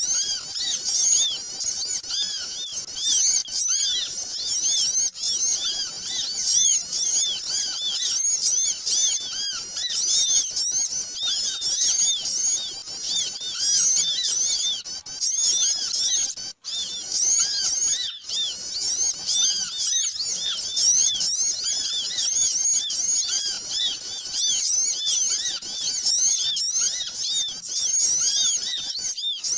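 A flock of small birds chattering and chirping noisily, many short high-pitched notes overlapping without a break, as played from a bird-lure (pikat) recording. The sound cuts out for an instant about halfway through, then carries on as before.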